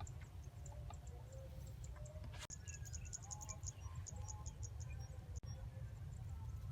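Faint outdoor field ambience: a steady low rumble under runs of fast, high-pitched ticking chirps from insects, busiest about two and a half to three and a half seconds in.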